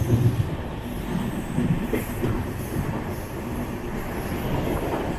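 Passenger train coach running on the rails, heard from on board: a steady rumble of wheels and running gear, with a louder knock right at the start.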